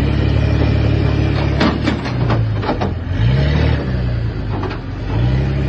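An engine running steadily at low speed. Its note dips and comes back up twice. A quick cluster of sharp cracks comes about a second and a half in.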